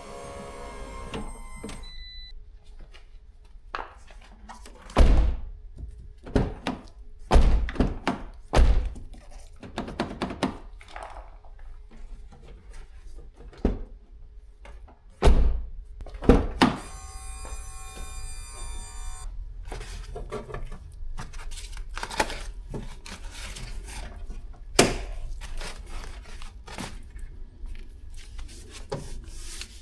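Fiat 500 door hardware being worked: a series of separate hard thunks and clunks from the door latch and handle mechanism. About two-thirds of the way through there is a brief steady whine.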